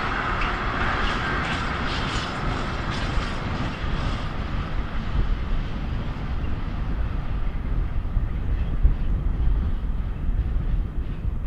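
A train rolling past with its wheels clattering over the track. The higher clatter dies away after about four seconds while a low rumble goes on, with wind on the microphone.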